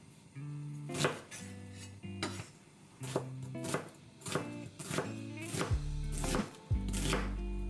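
Kitchen knife chopping on a cutting board, about two strokes a second at an uneven pace, over light background music.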